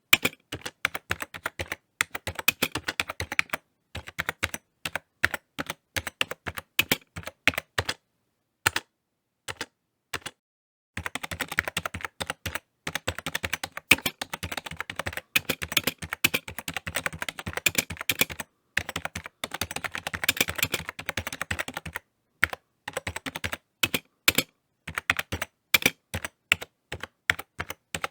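Typing on a computer keyboard: rapid keystroke clicks in runs, broken by short pauses. A sparse stretch with only a few keystrokes comes about a third of the way in, followed by a long run of fast, continuous typing.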